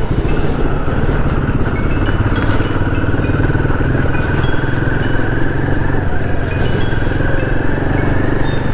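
Motorcycle engine running steadily at a constant cruising speed while being ridden.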